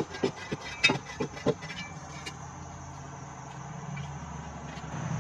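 About seven sharp knocks in the first two and a half seconds: a tool striking hard-packed dirt while filling in around a newly set pole. Under them a low steady engine hum, from a small Kubota tractor, grows slightly stronger near the end.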